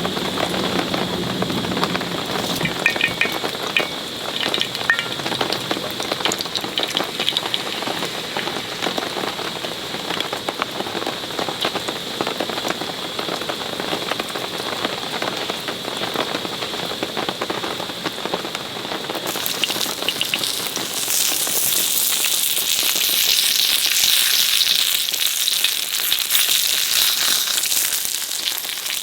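Heavy rain pattering densely on a camping tarp. About two-thirds of the way in, a loud sizzle starts abruptly: food going into a hot pan and frying.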